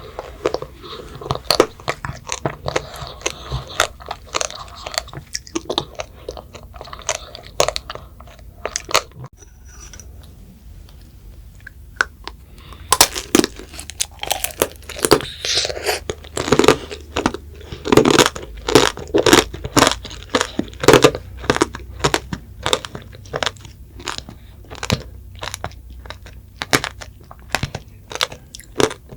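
Close-miked crunching and chewing of candied-strawberry tanghulu: the hard sugar shell cracking in sharp, irregular snaps, with a quieter pause about 9 to 12 seconds in before steady crunching resumes.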